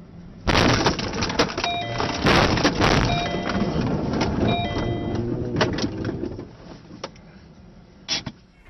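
Car crash: a sudden loud impact about half a second in, followed by several seconds of crunching, knocking and scraping, with a short tone sounding three times through it. It dies down after about six seconds.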